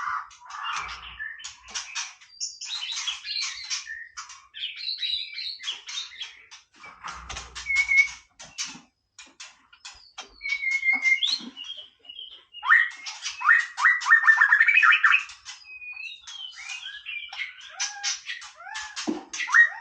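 White-rumped shama singing a varied song: runs of sharp clicking chips, clear whistled notes, a fast rattling trill of repeated notes about two-thirds of the way in, and falling whistled glides near the end.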